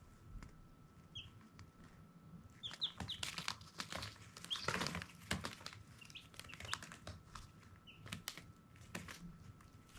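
Baby chicks peeping: short high chirps scattered here and there, a few in quick succession around the middle, over frequent light clicks and rustling.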